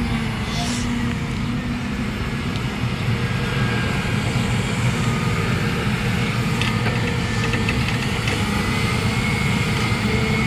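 A vehicle engine idling steadily as a low hum, with a few faint clicks around the middle.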